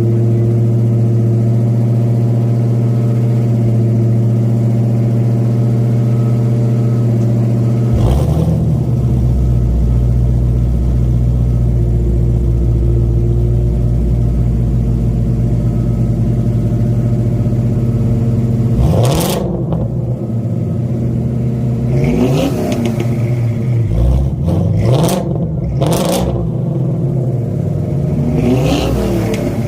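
Two Ford Mustang engines, a 1965 Fastback and a 2017 Shelby GT350, idling steadily, then revved. A deeper rumble comes in about eight seconds in. From about two-thirds of the way through there are several quick blips, each rising and falling in pitch.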